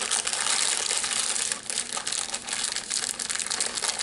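Crisp potato chips (Tatis oregano chips) crunching loudly and continuously as they are chewed, a dense crackling with brief dips.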